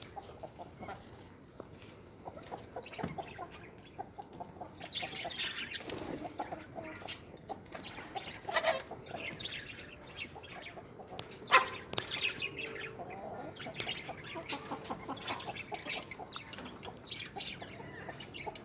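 Birds calling: a run of short chirps and squawks, with a few louder sharp calls about nine and twelve seconds in.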